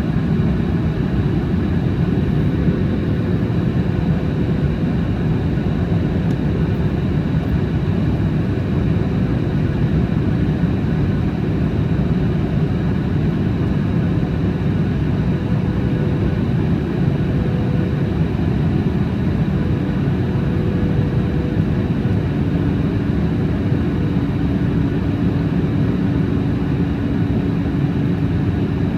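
Steady engine and airflow noise of a Boeing 737 MAX 8 airliner, its CFM LEAP-1B turbofans running steadily under a faint high whine. A low hum joins about three-quarters of the way through.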